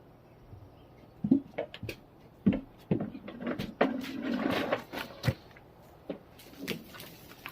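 Scattered knocks and clunks of objects being handled and set down, with a rustling scrape about four seconds in.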